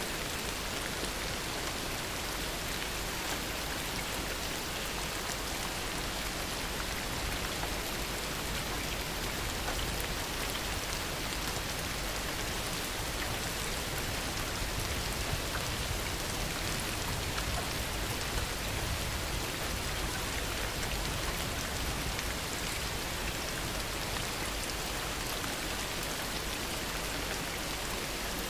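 Heavy rain falling steadily: a dense, even hiss speckled with the ticks of countless individual drops.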